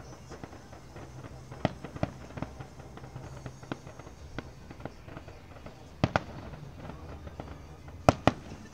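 Fireworks display: aerial shells bursting in a scattered series of sharp bangs, a few seconds apart at first, with the loudest two bangs in quick succession near the end.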